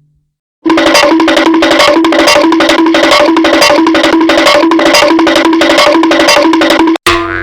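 Cartoon running sound effect: a fast, even patter of short wood-block-like notes alternating between two pitches, starting about half a second in. It cuts off near the end, where a cartoon boing begins.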